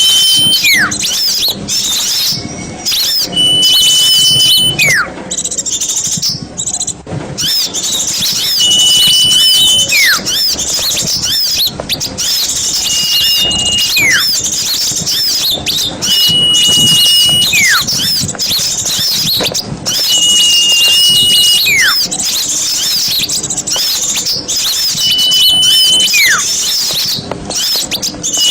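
Bird-lure recording of a dense chorus of small songbirds chirping and twittering. Over it a clear whistled note is held about a second and then drops in a quick falling glide, repeating about every four seconds.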